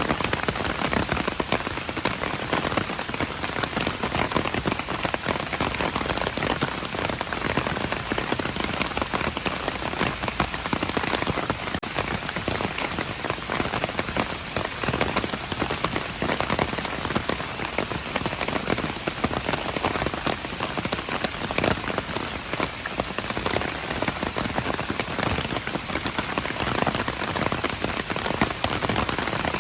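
Steady rain falling on hard surfaces, a dense patter of many drops with no let-up.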